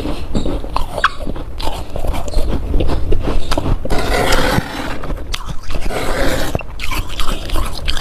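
Close-up crunching of icy humidifier frost being bitten and chewed: a run of irregular crunches, denser for a stretch about four seconds in and again near six seconds.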